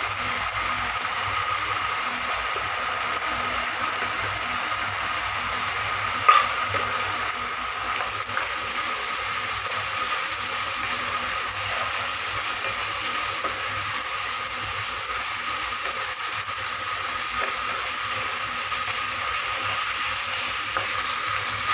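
Chicken pieces frying in their own oil in a pan, a steady sizzle as the dish cooks down and the oil separates out.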